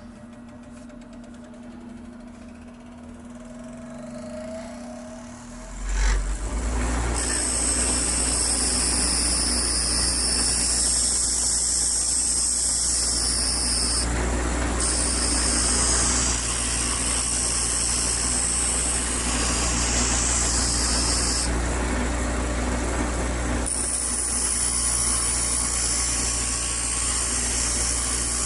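Electric grinder starts about six seconds in and runs steadily. A high grinding hiss from steel held against it breaks off twice and starts again.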